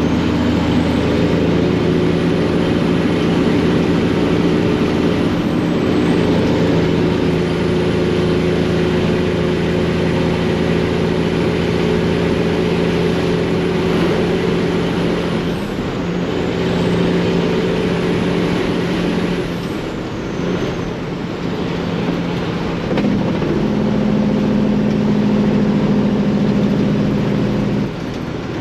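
Detroit diesel engine of a semi truck pulling under way, running steady through loud exhaust pipes. Its note shifts past the midpoint and climbs higher over the last few seconds. A faint high turbo whistle rises and falls above it.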